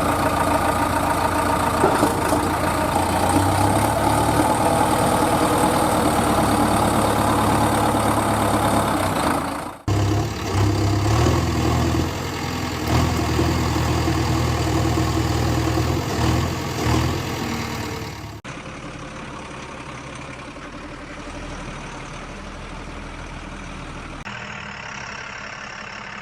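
Heavy diesel engines of earthmoving and farm machinery running, in several clips cut together with abrupt changes; the later part is quieter.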